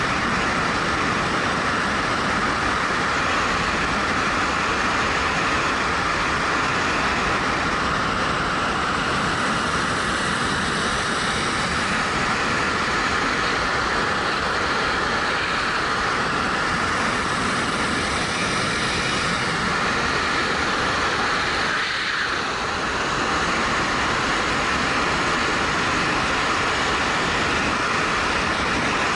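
Steady rush of wind over a helmet-mounted action camera on a moving motorcycle, with the Suzuki GW250's parallel-twin engine running beneath it. The noise eases briefly about three-quarters of the way through.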